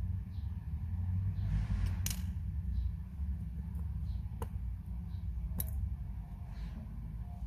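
A few light, sharp clicks of small metal watchmaker's tools against watch parts, about three in all, over a steady low hum.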